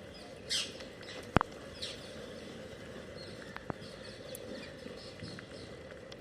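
Parrots calling: a harsh squawk about half a second in, another near two seconds, and softer chirps after. A sharp click about 1.4 s in is the loudest sound, with a smaller click later.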